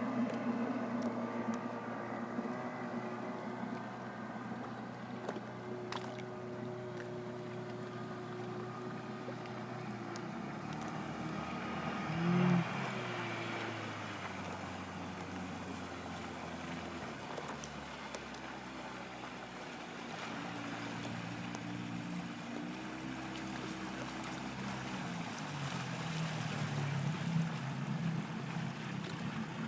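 Outboard motor of an inflatable patrol boat running, its pitch stepping up and down several times as the throttle changes, over a rush of water and wind. About twelve seconds in there is a brief louder swell.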